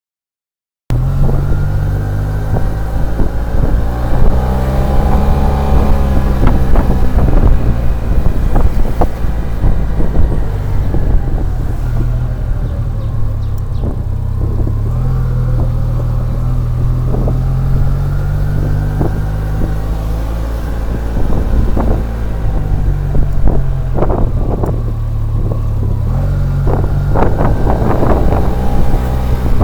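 SYM Maxsym TL 500 maxi-scooter's 465 cc liquid-cooled parallel-twin engine running under way, its pitch rising and falling as the rider opens and closes the throttle, with wind buffeting the microphone. The sound cuts in abruptly about a second in.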